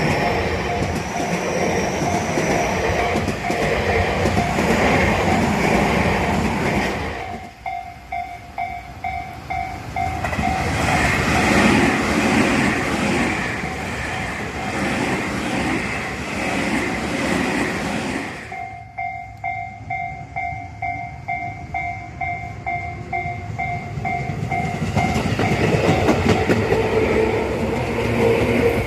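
Tobu Tojo Line electric trains passing close by, their wheels clattering over the rail joints. A fast-repeating electronic ding sounds all through and is heard clearly in two lulls, one about a quarter of the way in and a longer one past the middle.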